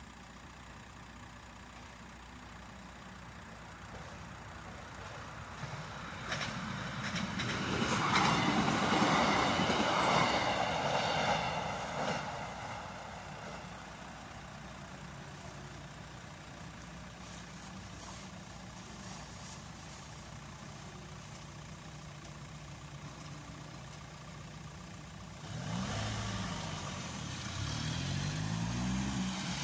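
A train running through a level crossing: it builds from about four seconds in, is loudest around eight to twelve seconds, and fades away. Waiting cars then idle, and near the end they pull away with their engines revving up and down.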